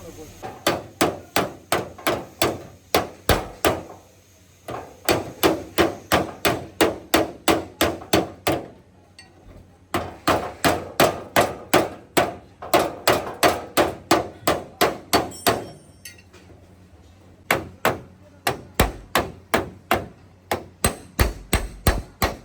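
Hammer beating out damaged car body metal in quick, steady runs of about three blows a second, with short pauses between the runs.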